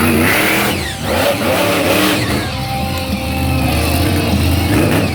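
Monster truck engine running loudly and being revved, a deep steady drone with its pitch rising and falling.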